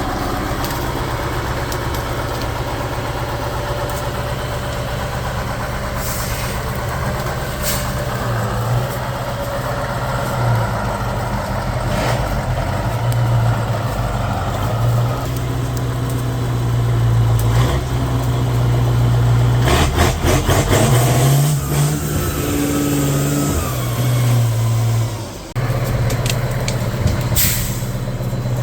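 Heavy off-road trial truck's engine running under load, its pitch rising and falling as it is revved, with a few short hisses of air.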